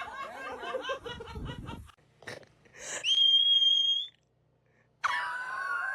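Laughter for about two seconds, then a steady high-pitched squeal lasting about a second. A lower, wavering squeal starts near the end.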